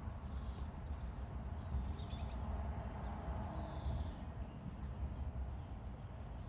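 Outdoor ambience: a steady low rumble of wind on the microphone with a few faint bird chirps, and a brief cluster of light clicks about two seconds in.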